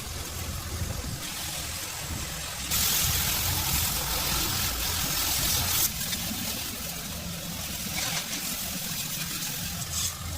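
An engine running with a steady low rumble. A loud hiss starts about three seconds in and stops suddenly about three seconds later.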